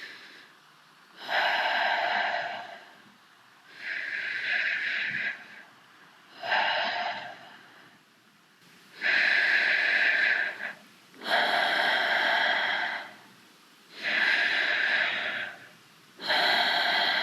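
A person breathing heavily through the mouth: seven loud, hissing breaths in and out, each one to two seconds long, with short pauses between them.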